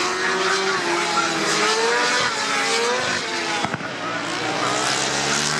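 Racing motorcycle engines at high revs, several engine notes overlapping and repeatedly rising and falling in pitch.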